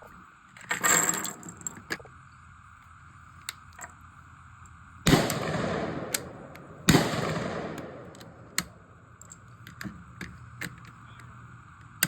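Two shots from a suppressed HK MR27 rifle, about two seconds apart, each trailing off over about a second. A brief noise comes about a second in, and faint clicks are scattered throughout.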